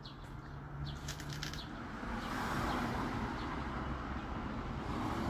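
Small birds chirping in short calls, and about two seconds in a broad rushing noise swells up and becomes the loudest sound.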